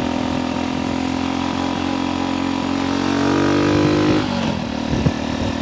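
1964 Honda C200's small single-cylinder engine running under way, its note climbing in pitch as it revs out, then dropping sharply about four seconds in as the rider changes up a gear.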